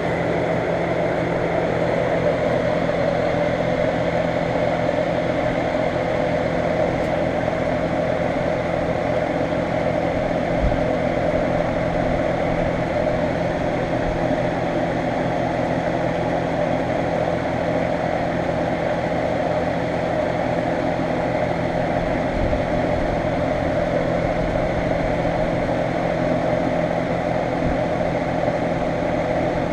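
A 2012 American Standard 4-ton central air conditioner's outdoor unit running steadily: the compressor's low hum under the whoosh of the GenTeq-motored condenser fan.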